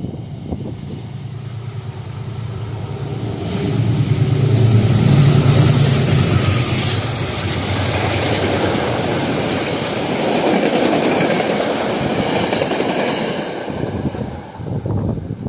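Locomotive-hauled passenger train passing close by. The locomotive's low engine hum builds to its loudest about five seconds in, then the cars follow with a steady rush of wheel and rail noise and light clatter that falls away near the end.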